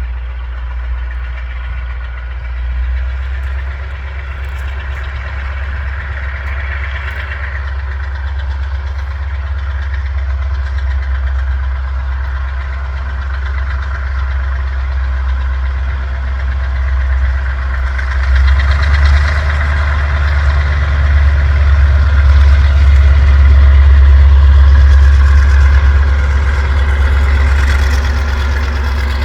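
Heavy diesel locomotive engine running with a deep, steady drone. It grows louder about two-thirds of the way through, then eases slightly near the end.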